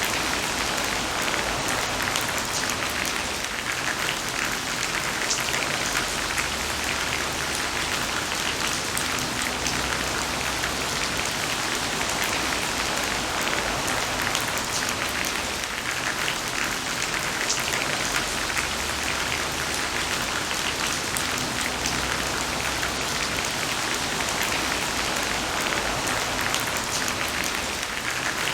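Heavy rain falling steadily: a dense, even hiss of rainfall with many small separate drop ticks over it.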